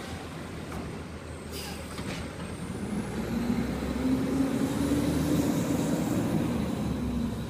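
Garbage truck's engine running, with a couple of knocks about two seconds in, then revving up and growing louder from about three seconds in and holding there.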